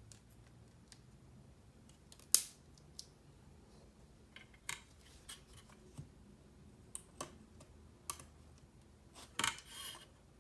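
Scattered small clicks and snaps from handling mechanical keyboard parts, with one sharp click about two seconds in and a short cluster of clicks and a brief scrape near the end.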